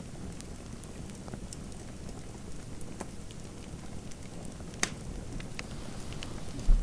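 Fireplace crackling: scattered sharp pops and snaps over a steady low hiss, with one louder crack a little past halfway. A short dull thump near the end is the loudest sound.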